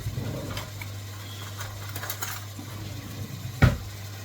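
Kitchen handling noises while margarine is being fetched for the dumpling mix: light clicks and knocks, then one sharp knock about three and a half seconds in, over a steady low hum.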